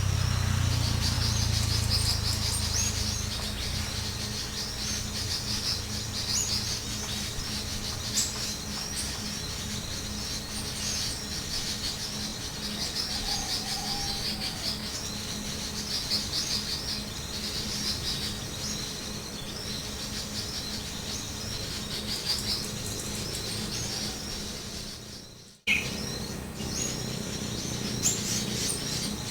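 Small birds chirping and twittering densely and without pause, high-pitched, over a steady low hum. The sound cuts out abruptly for a moment about 25 seconds in, with a click as it returns.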